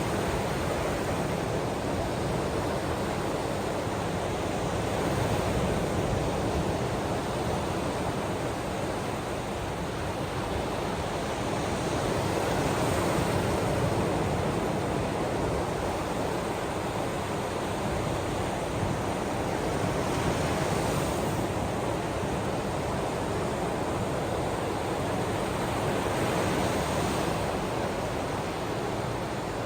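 Ocean waves washing in: a steady rushing of surf that swells and eases about every seven or eight seconds.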